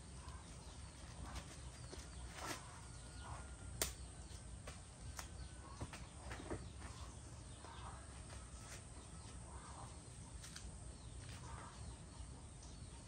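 Faint outdoor ambience with scattered short clicks and rustles over a low steady hum, with one sharper click about four seconds in.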